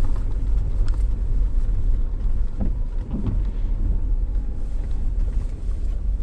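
Steady low rumble of a Jeep driving slowly over a snowy, bumpy road, heard from inside the cabin, with a few faint clicks around the start and about a second in.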